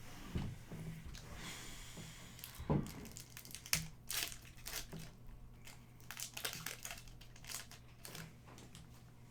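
Wrappers on hockey card packs being torn open and crinkled, a run of irregular crackles and rustles as the cards are pulled out.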